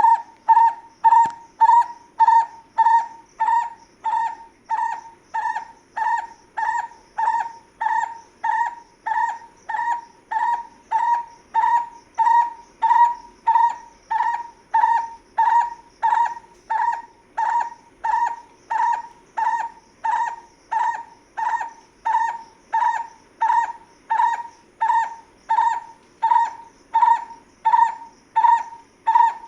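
A bird calling one short note over and over, about twice a second, in a steady, even series.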